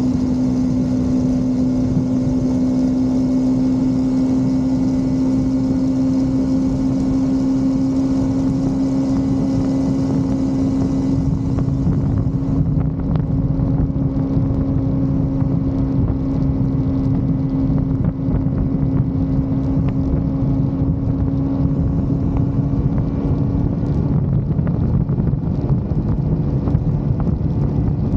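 Motorcycle engine running at a steady cruising speed, with wind rushing over the microphone. Near the end the engine note drops lower.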